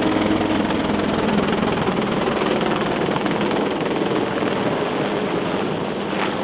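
Helicopter in flight: a steady rush of rotor and turbine noise.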